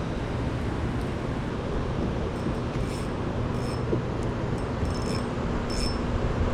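Steady wind noise on the microphone and water moving around a kayak, with a low steady hum underneath and a few short, high chirps from about halfway through.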